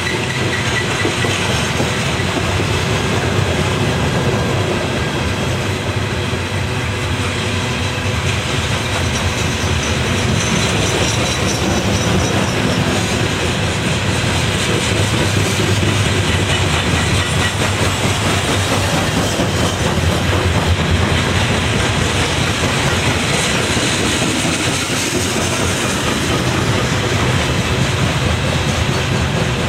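A train's cars rolling past steadily, their wheels running on the rails.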